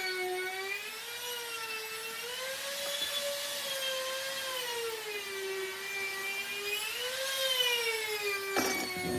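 A high-speed electric power tool running on wood, a high-pitched motor whine that dips and rises in pitch as it is pushed into the work and eased off.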